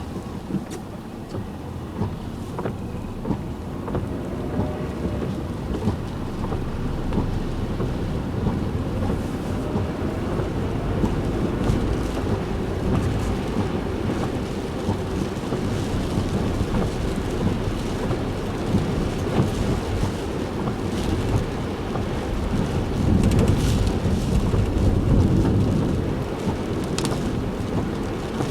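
Heavy typhoon rain pelting a moving car, heard from inside the cabin as many small ticks over a steady low rumble of the car on the road; the downpour swells louder for a few seconds near the end.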